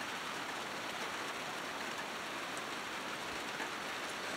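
Steady rain falling on a caged plastic water tote and a wet plywood board, an even hiss of drops.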